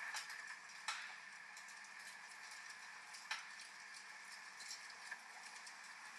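Wood fire crackling, with many small ticks and sharp pops about a second in and again after three seconds, over a steady hiss of falling rain.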